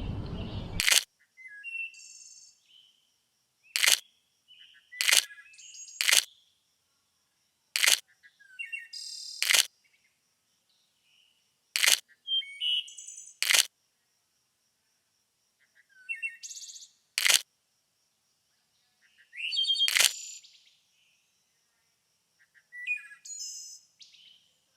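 Small birds chirping and calling in short phrases, broken by about ten sharp single clicks spaced a second or more apart.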